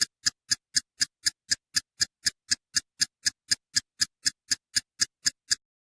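A steady run of identical sharp ticks, about four a second, with silence between them, stopping about five and a half seconds in.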